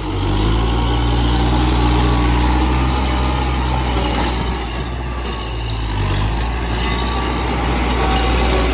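Heavy vehicle engine running under load, steady and loud, with its pitch and level easing off briefly about five seconds in and picking up again around six seconds.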